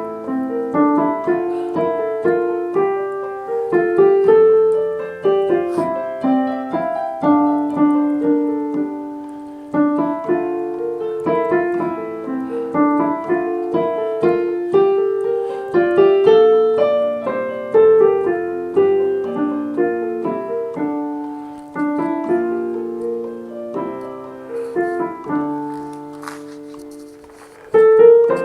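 Piano music: a melody moving over chords, each note struck and then fading. It softens for a moment and then comes back with a loud chord near the end.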